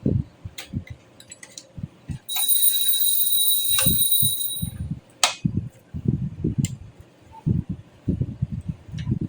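Desktop computer parts being handled and fitted into a case: irregular dull knocks and a few sharp clicks, with a steady high-pitched hiss and whine lasting about two seconds in the middle.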